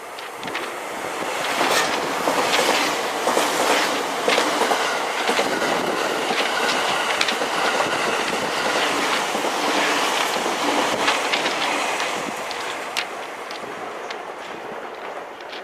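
A train passing through a station at speed: the E001-series Shiki-shima's wheels clicking over the rail joints in a steady clickety-clack. The rush of noise swells in about a second in and fades near the end.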